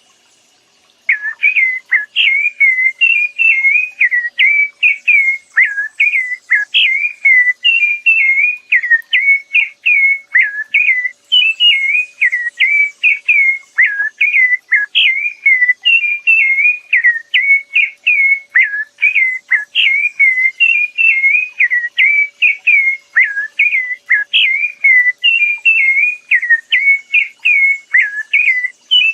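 A songbird singing a long, unbroken run of short whistled notes, a few per second, starting about a second in.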